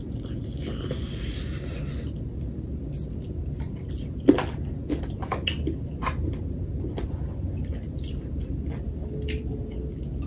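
A person chewing and biting chicken with sauce close to the microphone: scattered wet mouth clicks and smacks over a steady low hum, with a short hiss near the start and one sharper click about four seconds in.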